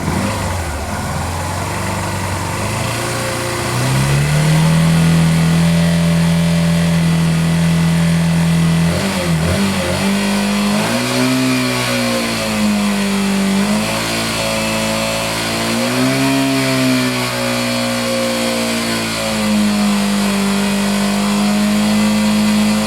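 Yamaha Factor 150's single-cylinder four-stroke engine, fitted with a new stator, running at idle, then held at raised revs from about four seconds in. After a brief dip it runs higher still, with the revs rising and falling a few times, while its charging voltage is being checked. No stator noise is present.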